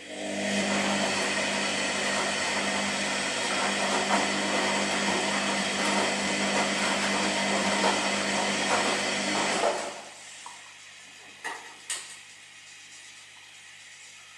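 Washing machine running with a steady motor hum and a rushing noise that stops abruptly about ten seconds in, followed by two sharp clicks.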